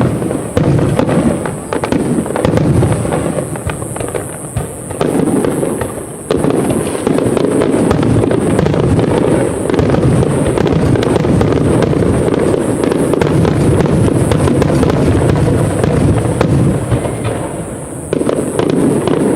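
Aerial fireworks display: a dense barrage of shells bursting in rapid succession with crackling, getting louder about six seconds in and easing off near the end.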